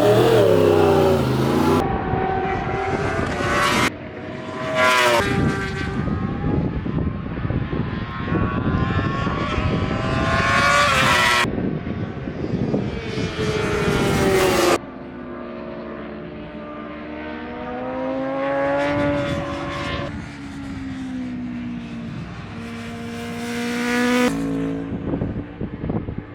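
Racing superbike engines at high revs in a run of short clips: bikes accelerating and passing, the pitch climbing and dropping with each gear change. One quieter stretch near the middle has a single engine rising and falling more slowly.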